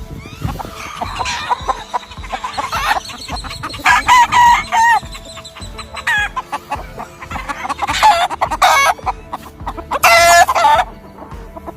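Gamefowl roosters crowing several times, loudest a few seconds in, near the middle and near the end, over a background of chickens clucking and calling.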